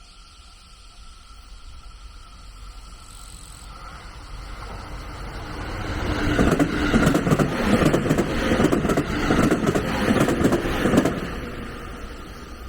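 A train passing close by: its running noise builds, peaks for about five seconds with a rapid clatter of wheels over the rails, then fades away.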